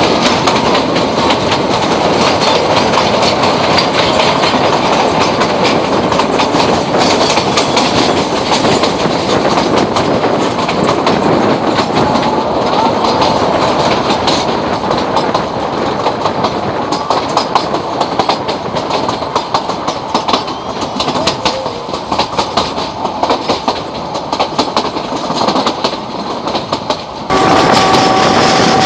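Kangra Valley Railway narrow-gauge train running, its wheels clattering over the rail joints in a dense, continuous rattle. Near the end the sound changes abruptly to a steady, slightly louder drone with two held tones.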